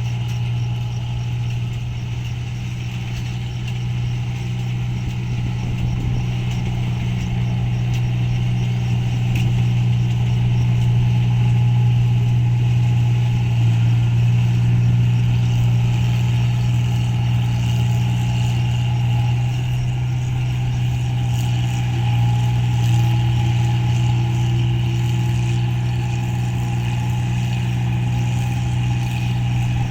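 Rice combine harvester running steadily while cutting paddy: a continuous low engine drone, with a higher steady tone joining about two-thirds of the way through.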